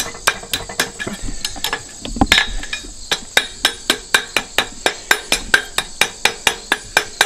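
Blacksmith's hammer striking quarter-inch round-stock iron on the anvil horn in a quick, steady rhythm of about three blows a second, bending a small decorative scroll on the end of a wall hook.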